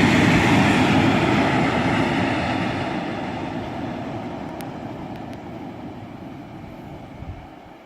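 Freight train running past and receding: its loud rumble fades steadily away.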